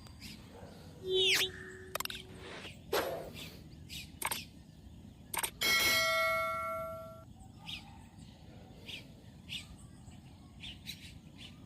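Birds chirping over scattered sharp clicks and taps. About six seconds in, a bright ringing chime sounds and dies away over about a second.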